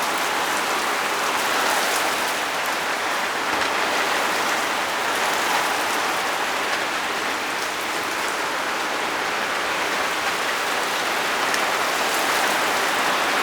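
Steady rain falling during a thunderstorm, an even hiss with faint ticks of drops.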